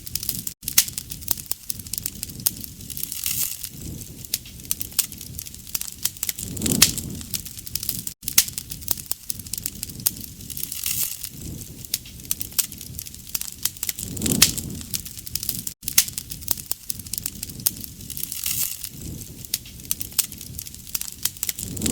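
Wood fire crackling and popping steadily, with a low swell of flame noise about every seven and a half seconds. It is a short recording looped, with a brief dropout at each seam.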